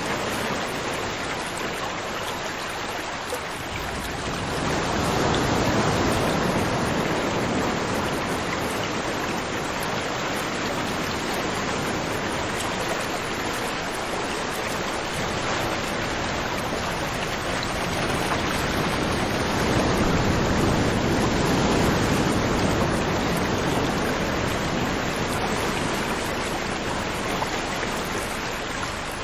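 River water flowing in a continuous rushing noise, swelling louder twice.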